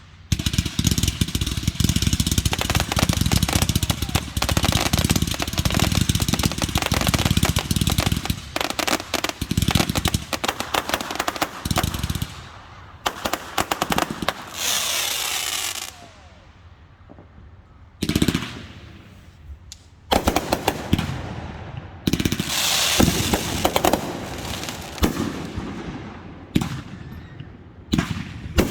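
Fireworks display: a dense barrage of rapid bangs and crackling for about the first twelve seconds, then separate bursts with short lulls between them.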